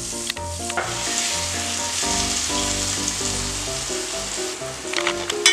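Diced pumpkin cubes sizzling as they fry in hot oil in a pot, with a few sharp clicks of a metal spatula near the end.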